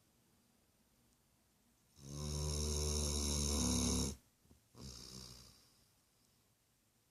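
A sleeping dog snoring: one loud, drawn-out, rattling snore about two seconds in, lasting about two seconds, followed after a brief pause by a shorter, softer breath.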